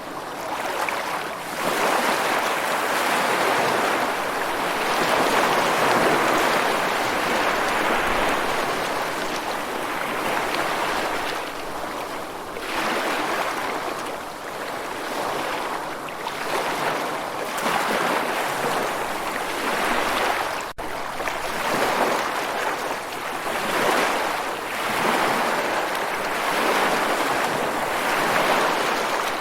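Ocean waves washing in and drawing back: a steady rushing that swells and fades every few seconds, with a momentary gap about two-thirds of the way through.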